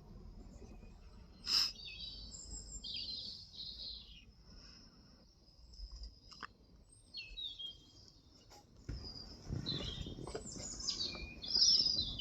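Small birds singing and chirping in short, high, repeated phrases, loudest near the end. There is a sharp click about one and a half seconds in, and a low rustling around nine to ten seconds.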